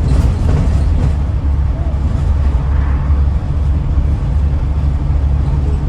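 Scania N94UD Omnidekka double-decker bus running on the road, heard from inside the passenger cabin: a steady low engine drone with road and body noise over it.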